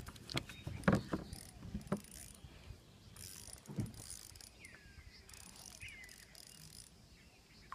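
Fishing reel being cranked to bring in a hooked fish, with irregular clicks and knocks from the reel and rod.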